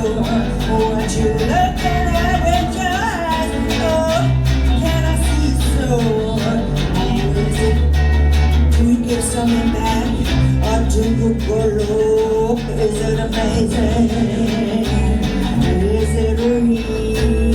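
Live band playing an instrumental stretch of a song, with drums, a strong pulsing bass line and a sliding lead melody.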